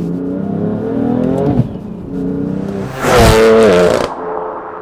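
BMW F80 M3's S55 twin-turbo straight-six, fitted with Mosselman hybrid turbos, accelerating hard: the engine's pitch climbs, breaks about a second and a half in, and climbs again. The loudest part comes about three seconds in, with the pitch falling, and it cuts off suddenly just after four seconds in.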